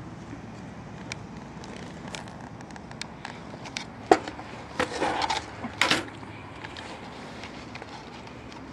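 Skateboard wheels rolling on pavement, a steady rumble with scattered clicks, and a burst of sharp clacks from about four to six seconds in.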